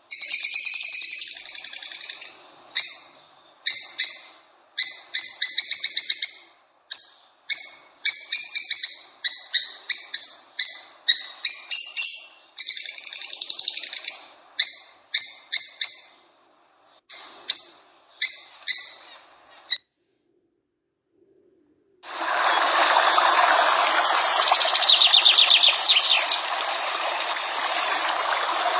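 Small birds singing in quick, repeated chirping phrases that stop about twenty seconds in. After a brief silence, running stream water starts and carries on, with a few bird chirps over it.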